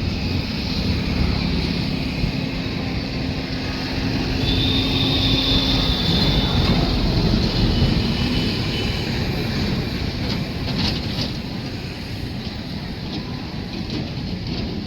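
Train running, a steady rumble with a thin high tone held for about two seconds near the middle and a few short clicks later.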